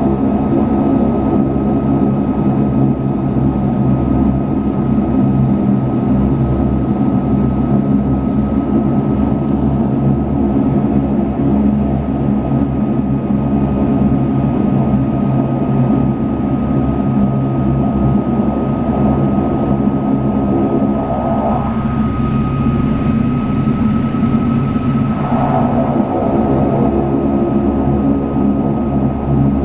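Saab 340B's twin General Electric CT7 turboprop engines and propellers running steadily, heard inside the cabin: a deep, even propeller hum with a thin steady whine above it.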